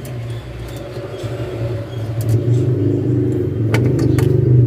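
A steady, loud low motor hum with a fluttering rumble, and a few sharp clicks near the end.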